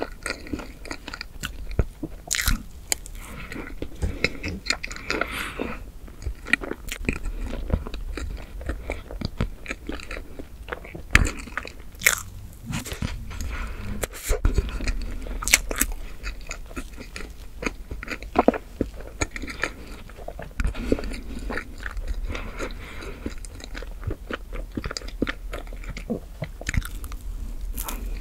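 Close-miked chewing and wet mouth sounds of eating chocolate whipped-cream cake, with many short sharp clicks scattered throughout.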